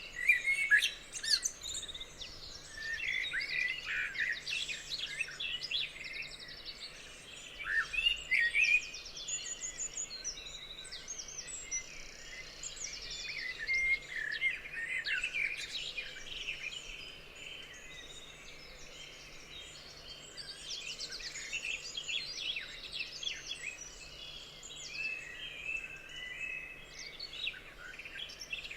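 Several forest birds singing and chirping at once: a dense chorus of short, overlapping calls and trills, busiest and loudest in the first third.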